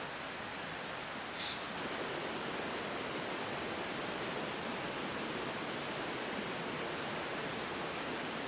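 Steady rain, an even hiss with no rhythm. A brief high chirp comes about one and a half seconds in.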